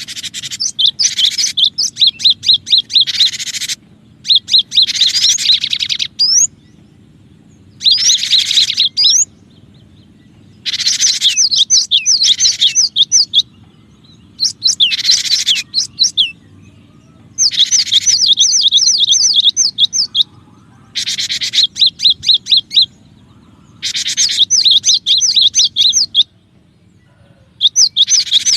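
Cinereous tit (gelatik batu) calling in repeated bouts of rapid, high-pitched chirps, each bout lasting one to three seconds with short pauses between.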